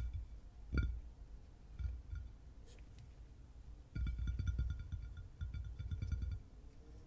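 Fingers tapping on a hard object that rings briefly at a few clear pitches with each tap: one firm tap about a second in, a few scattered taps, then a run of fast tapping from about four seconds in that stops after six seconds.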